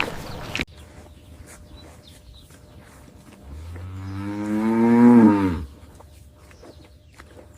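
A cow mooing once: a single long, low call of about two seconds that swells in loudness and drops in pitch as it ends.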